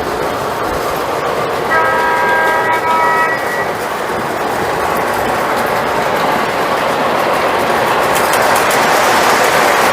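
Lionel model train running on its track, a steady noise of wheels and motor that grows louder toward the end. About two seconds in, the train's horn sounds once as a chord of several steady tones, lasting about a second and a half.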